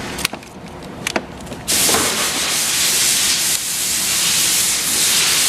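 A couple of sharp clicks, then a loud steady hiss that starts suddenly about one and a half seconds in.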